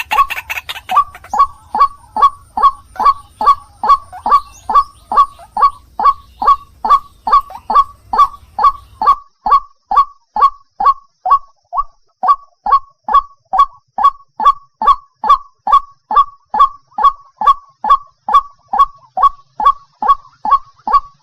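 White-breasted waterhen (ruak-ruak) calling: a long steady run of harsh notes, about two a second, each one dropping in pitch.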